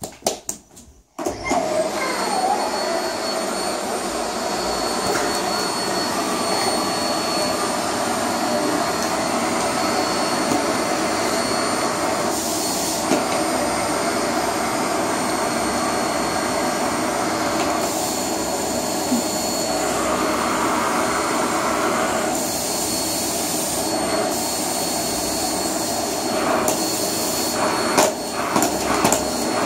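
Vacuum cleaner starting about a second in, then running steadily with a high whine. Its airflow rises and falls a few times, and there are a few knocks near the end.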